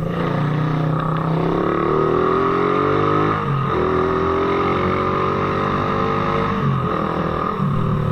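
Motorcycle engine pulling away, its revs climbing, dropping at a gear change about three and a half seconds in, then climbing again before easing off near the end.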